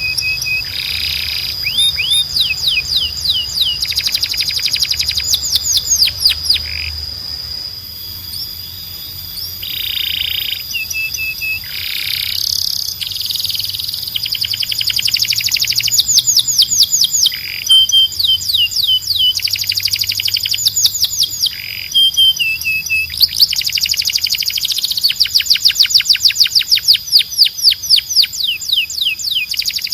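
Domestic canary singing in phrases of fast trills, each a rapid run of repeated high notes, over a steady high whistle-like tone. A long, dense, loud trill comes near the end.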